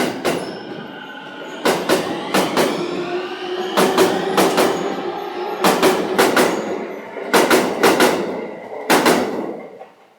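Train wheels striking a rail joint, a loud double clack for each bogie as the cars roll over it, with a ringing, bridge-like resonance. Under the clacks runs a rising electric motor whine. The clacking stops abruptly near the end as the last car clears the joint.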